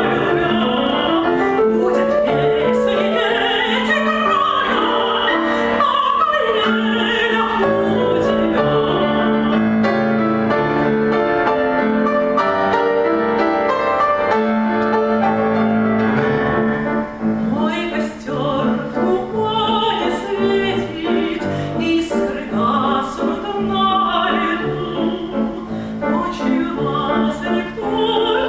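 A female voice sings a Russian romance in classical, operatic style, with piano accompaniment.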